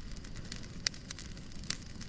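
Wood fire crackling in a fireplace: scattered sharp pops and ticks over a steady low rumble, with a loud pop a little under a second in and another near the end.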